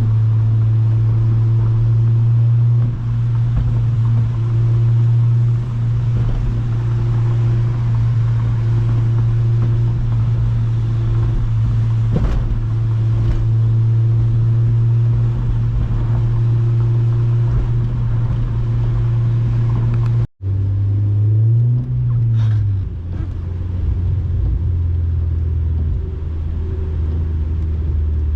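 Honda Civic Si's K20 four-cylinder engine with a Rev9 cat-back exhaust, heard from inside the cabin as a steady low drone at cruise over tyre noise. About two-thirds of the way through, the sound breaks off for an instant. The engine note then rises briefly and settles at a lower pitch.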